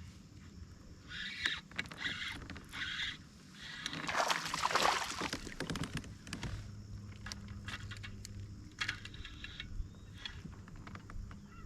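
Kayak on the water: splashing and water noise around the hull, with a short series of splashes early on and a louder stretch about four seconds in. A low steady hum starts about six seconds in.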